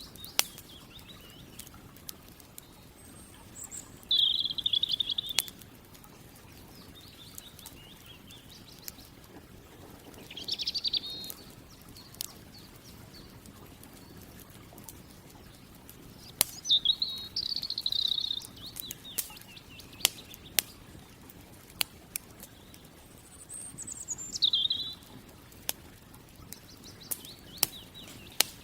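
A campfire crackling with sharp, irregular pops. A bird sings a short, high phrase four times, several seconds apart.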